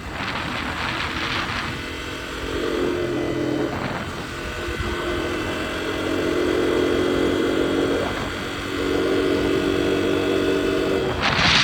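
Dirt bike engine running under changing throttle, its pitch rising and dropping several times. Rushing noise comes in at the start and again near the end.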